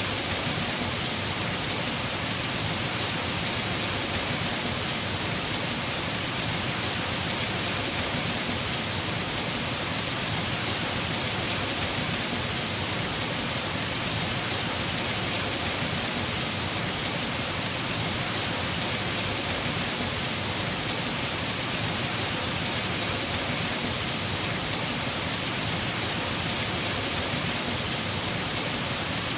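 Heavy rain falling steadily on a house roof: an even, unbroken hiss with no thunder or separate drips standing out.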